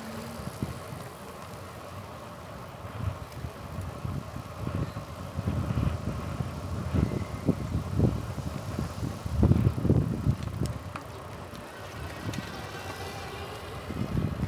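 Wind buffeting the microphone during a bike ride, coming in gusts that are strongest about seven to ten seconds in, over a faint steady hum; a faint rising whine is heard near the end.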